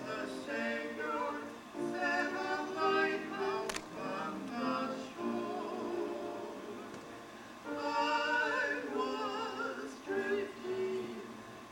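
Voices singing a gospel hymn in long held notes with vibrato, with a single sharp click about four seconds in.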